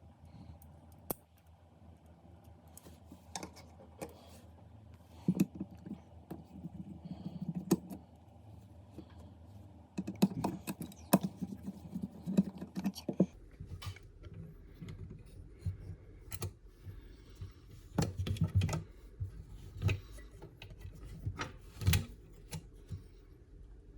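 Irregular clicks and taps of small hard objects being handled, some in quick clusters, over a low steady hum that changes abruptly about thirteen seconds in.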